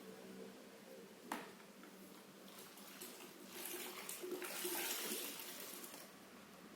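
Cats play-fighting on a mattress: a sharp click about a second in, then a few seconds of rustling and scuffling on the bedding that grows louder and then dies away.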